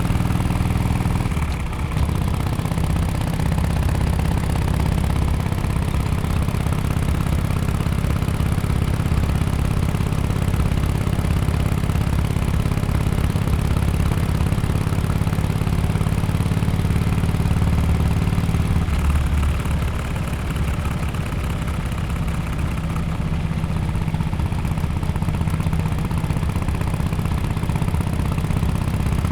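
Harley-Davidson Sportster XL1200X Forty-Eight's air-cooled V-twin running at low revs through an aftermarket Bell's Performance exhaust, a deep steady exhaust note. The engine note shifts about two seconds in and again a little past the middle.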